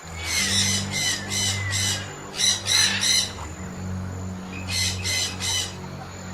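A bird giving harsh, rasping squawks in three quick series of three or four calls, over a low steady hum.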